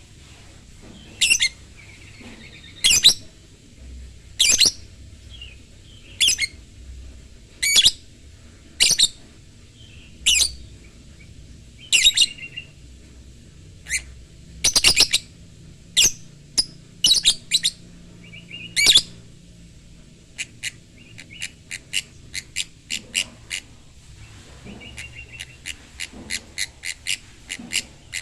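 Lovebird calling: loud, sharp shrill calls about every one and a half seconds, then from about twenty seconds in a fast run of short chirps, several a second.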